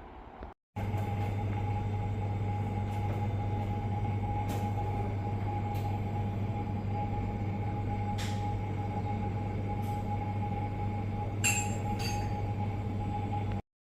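A steady mechanical hum with a constant whine above it, unchanging throughout, with a few faint clicks scattered through it. It starts and stops abruptly at clip cuts.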